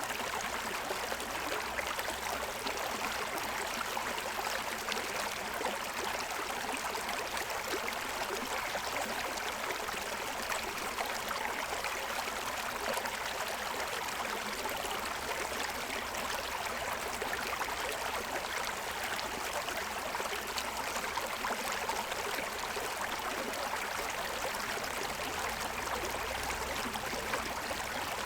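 Shallow stream running over a stony bed, a steady rush of water.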